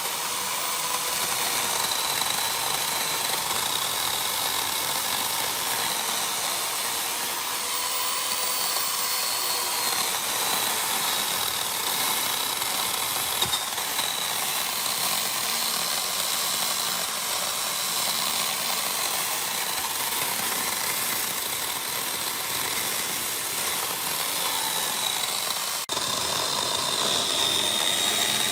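Chainsaw running steadily at high speed, its pitch holding nearly constant, with a brief drop near the end.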